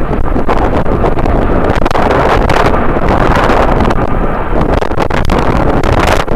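Strong wind buffeting the microphone: a loud, continuous rumble that surges unevenly in gusts.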